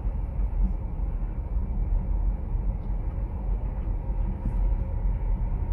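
Steady low rumble of a car's engine and road noise heard from inside the cabin, the car creeping along in stop-and-go traffic.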